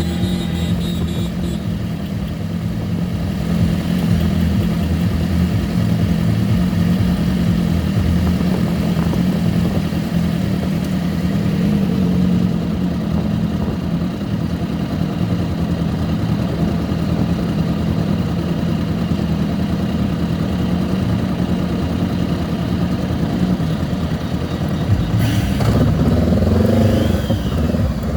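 Honda CB 500X's parallel-twin engine running steadily while riding, under a constant rush of noise. Near the end it grows louder, with shifting, rising pitches.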